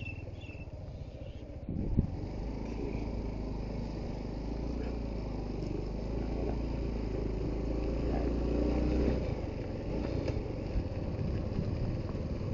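Suzuki GD110HU motorcycle's single-cylinder four-stroke engine running as the bike is ridden, with a sharp knock about two seconds in. The engine note steadies and strengthens, then turns rougher about nine seconds in.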